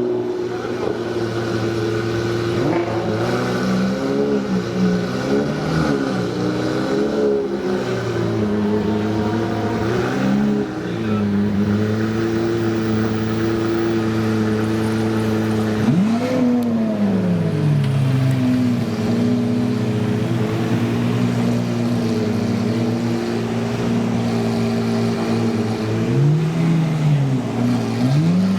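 Supercar engines idling, with short throttle blips that send the pitch up and straight back down: a cluster of them a few seconds in, one near the middle and a couple near the end.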